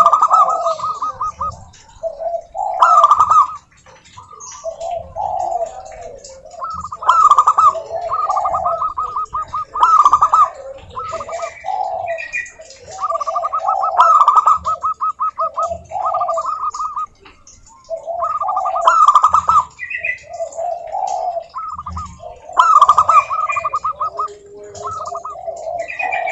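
Zebra doves (perkutut) singing: repeated phrases of rapid staccato, trilled coo notes, one phrase after another with short pauses and lower coos between them.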